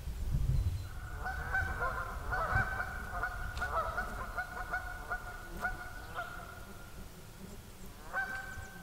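A water bird calling on one held pitch that wavers in quick repeated pulses for several seconds, with a shorter call near the end, over a low rumble.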